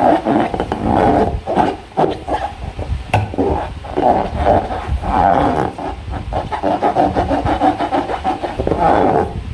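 Hands squeezing and rubbing a rubber balloon during slime-balloon making: the stretched rubber squeaks and groans in irregular stretches, with a few sharp clicks between.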